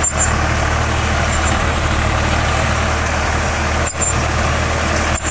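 Swaraj 855 tractor's diesel engine running steadily while working a Jagatjit super seeder, a loud continuous hum with a strong low drone, briefly dipping twice near the end.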